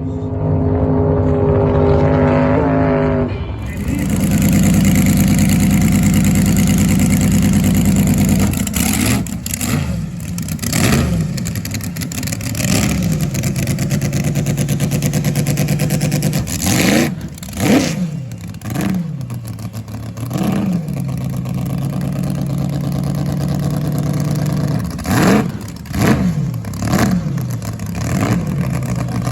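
Racing jet boat engines: a loud, steady run for the first several seconds, then the engines repeatedly swell and sweep down and up in pitch, about ten times.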